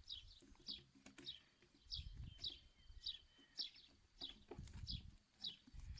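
A small bird calling over and over: short, high, falling chirps repeated about twice a second, with faint low rumbles underneath.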